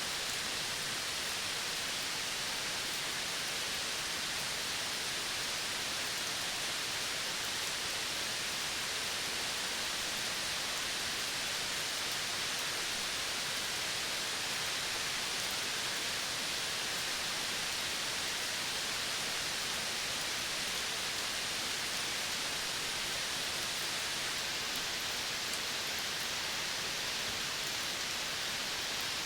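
Steady, even hiss of a forest nature soundscape, a rain-like wash with no distinct calls standing out. A faint high sizzle on top thins slightly near the end.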